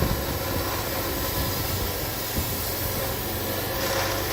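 Wood-Mizer LT40 band sawmill running steadily, a constant mechanical drone with a faint steady whine.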